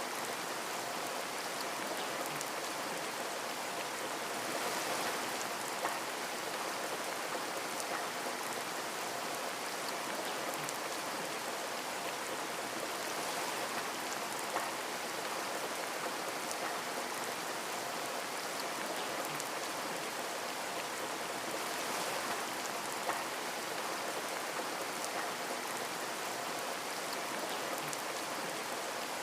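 Steady rain falling on a window pane, an even hiss with scattered drop ticks.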